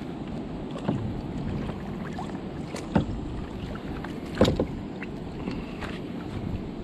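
Wind and water noise on a small fishing boat, with three sharp knocks against the hull or gear about a second, three seconds and four and a half seconds in, the last the loudest.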